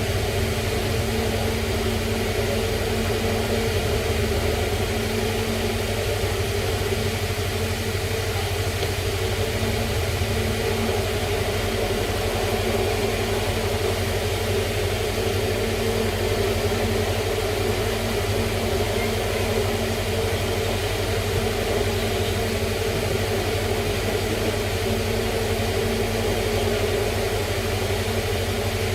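A steady hum with a constant low drone, unchanging throughout.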